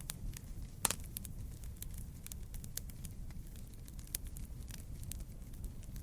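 Wood campfire burning: a steady low rush of flame with frequent sharp crackles and pops, one louder pop about a second in.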